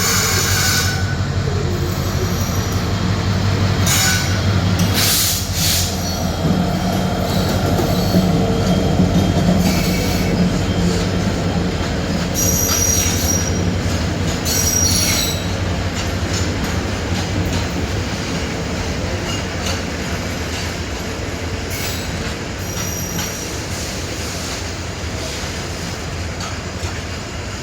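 Long freight train running past: a steady rumble and clatter of wagons, with brief high-pitched wheel squeals now and then. The sound eases off slowly over the second half.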